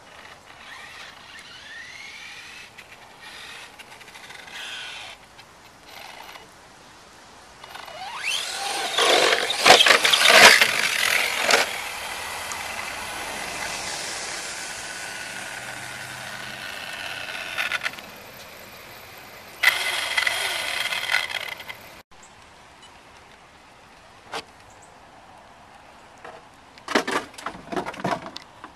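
Electric motor of a Helion Invictus radio-controlled monster truck whining as it speeds up and slows down. A loud, rough stretch of noise comes about eight to twelve seconds in, followed by a steady whine at speed and another noisy burst around twenty seconds. A few sharp knocks come near the end.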